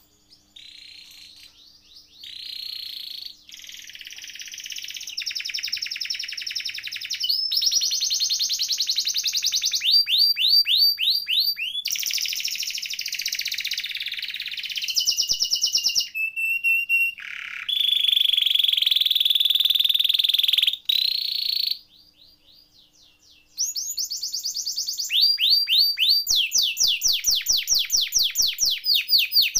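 Domestic canary singing a long, high-pitched song of rapid rolling trills and buzzy held phrases, breaking off briefly about three quarters of the way through before resuming with fast repeated notes.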